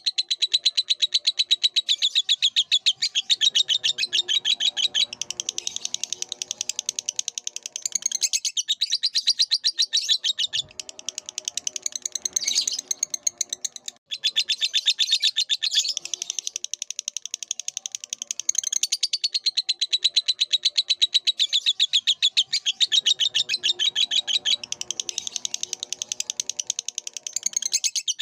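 Lovebird song: long runs of rapid, shrill chirps and twitters in quick succession.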